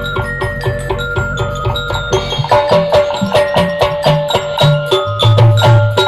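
Instrumental hadrah music: frame drums and kendang beating a fast, dense rhythm under a held melody line, with heavier low drum strokes near the end.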